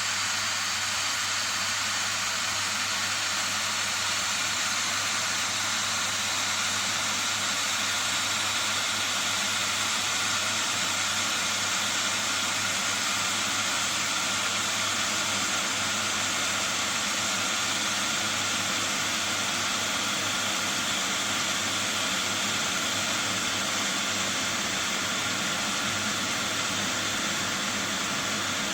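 2200 W glass electric kettle heating water: a steady rushing hiss with a low hum underneath.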